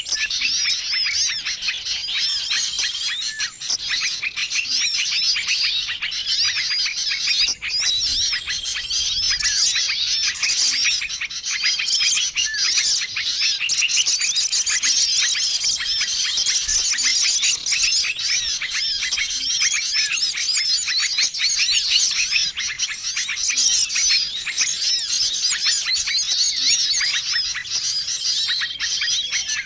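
Dense chorus of many small songbirds chirping and trilling at once: a mixed bird-lure call recording. A short, level whistled note recurs every few seconds over the steady chatter.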